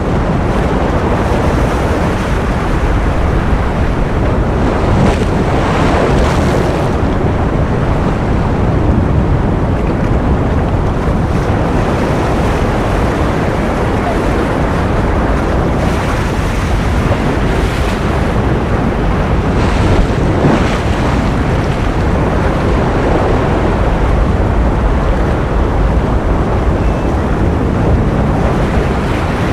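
Ocean surf: a steady, dense rush of noise heavy in the low end, swelling faintly every few seconds as waves break.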